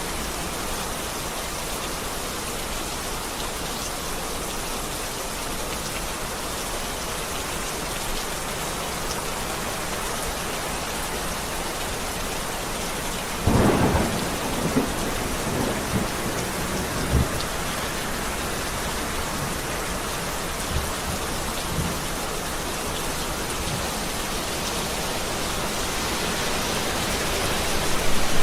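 Heavy rain falling steadily, with a thunderclap breaking in about halfway through and rumbling on for a few seconds; thunder begins to build again near the end.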